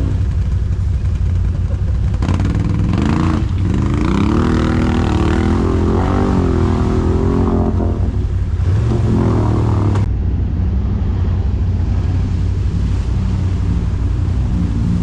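Quad bike (ATV) engine running with a steady low rumble, revving up and down in pitch through the middle, with an abrupt change about ten seconds in.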